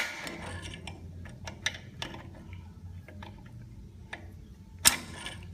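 Hand tools clicking and tapping on metal while the lock tabs on a Hydramatic gearbox are squeezed up, with a sharp knock at the start, scattered lighter clicks, and another knock near the end.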